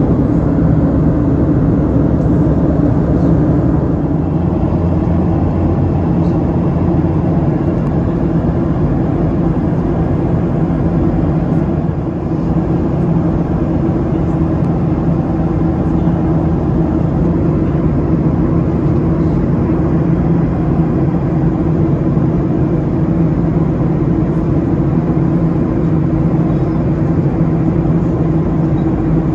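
Steady cabin drone of a Boeing 737-800 in flight: engine and airflow noise with a constant low hum.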